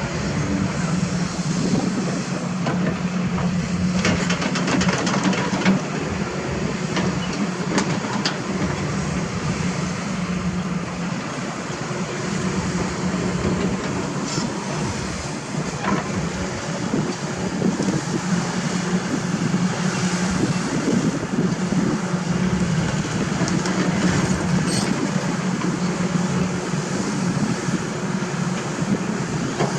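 Excavator's diesel engine running steadily, its pitch and level rising and easing as it works under load, with occasional metallic clanks and knocks.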